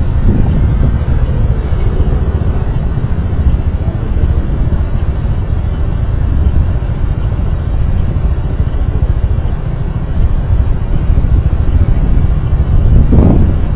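Steady low rumble of a road vehicle on the move, wind and road noise on the microphone, with a brief rising swell near the end.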